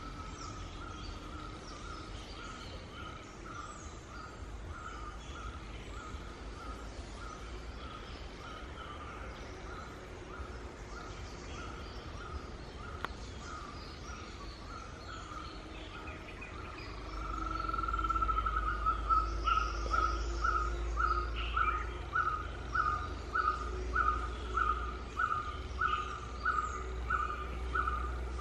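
A bird calling one short note over and over, about one and a half times a second, growing louder about two-thirds of the way through as a low rumble comes in underneath.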